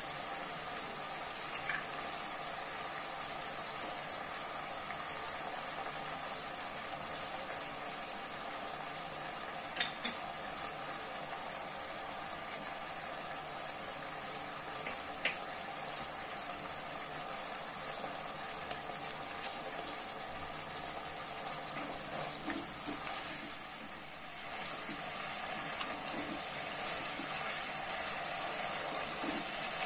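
Diced chicken frying in oil in a nonstick wok: a steady sizzle with a few sharp pops. Near the end a spatula stirs and scrapes through the pan.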